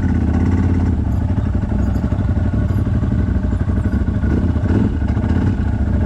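CFMoto 1000 ATV's V-twin engine running steadily, with no revving.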